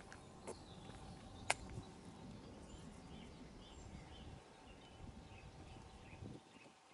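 Quiet outdoor ambience: a low, uneven rumbling noise with faint bird chirps, and a sharp click about a second and a half in. The rumble drops away near the end.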